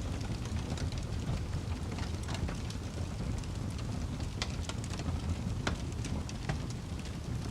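Fire burning with a steady low rumble, broken by irregular sharp crackles and pops, a few of them louder about halfway through and again near six seconds in.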